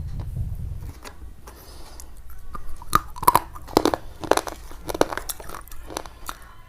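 Crisp crunching and chewing, a run of irregular crunches about once or twice a second starting a couple of seconds in, after a low rumble in the first second.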